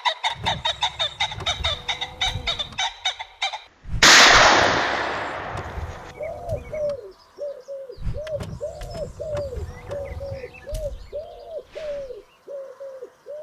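Bird calls: a rapid run of pulsed calls, then a loud burst of noise about four seconds in that dies away over a couple of seconds, then a series of short, arching calls about two a second.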